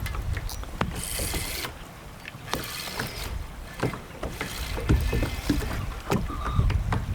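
Water splashing and sloshing around a kayak, in swishes every second or two, with small knocks against the hull and wind buffeting the microphone, strongest near the end.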